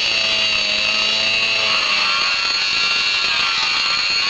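A power tool running steadily with a high-pitched whine.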